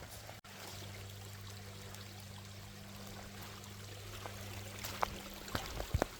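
Running water, a steady even rush, with a few short sharp clicks near the end.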